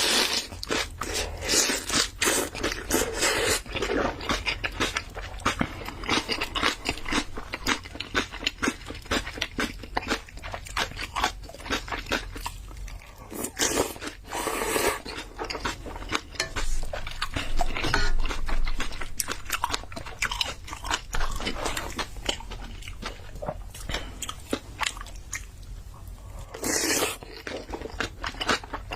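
Close-miked eating of spicy ramen mixed with rice: steady wet chewing and biting with many small crunchy clicks, and a couple of longer, fuller sounds about halfway and near the end.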